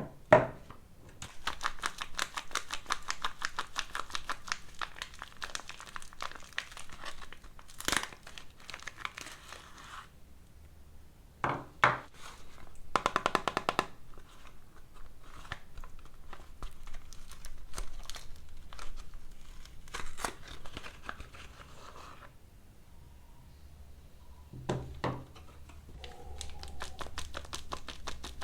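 Soap packaging crinkling and tearing as bars of soap are unwrapped by hand: long runs of rapid crackling with a few sharp knocks between them.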